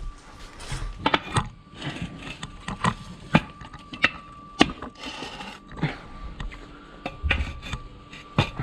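Trowel and concrete blocks being worked during blocklaying: a string of sharp clinks and knocks at irregular intervals, with a stretch of scraping about five seconds in. A faint steady tone runs underneath.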